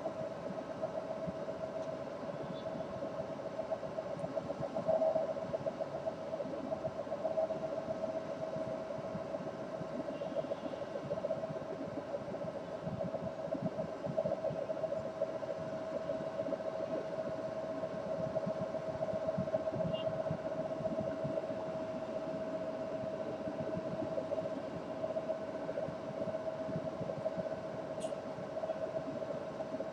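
A steady machine hum with hiss throughout, with a few faint, short high chirps, probably from a small bird, and one sharp click near the end.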